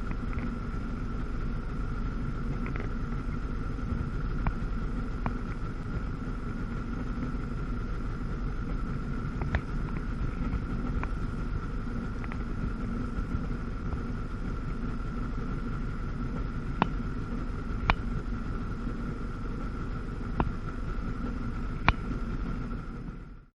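1997 Sea-Doo GTS jet ski's 720 two-stroke engine running at a steady speed on the water, with a few sharp taps now and then. It cuts off suddenly near the end.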